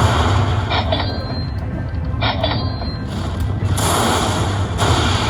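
Slot machine's game sounds during a Lightning Link bonus: a steady low rumble under electronic effects, with short high chiming tones about one second and two and a half seconds in, swelling near the end.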